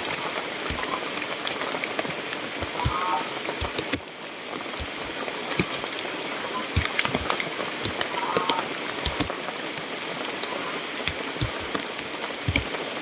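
Steady heavy rain, with many sharp taps of drops striking nearby surfaces.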